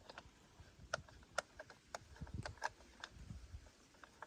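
Faint, irregular clicks and light knocks, about half a dozen over four seconds, from the chainsaw and its parts being handled during repair.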